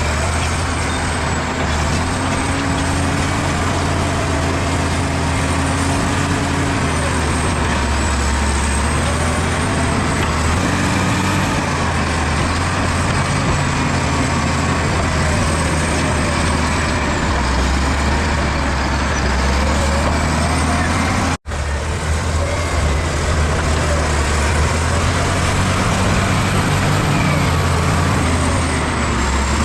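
Bulldozer's diesel engine running steadily under load as it pushes soil, with faint whining tones that rise and fall. The sound drops out for an instant about two-thirds of the way through.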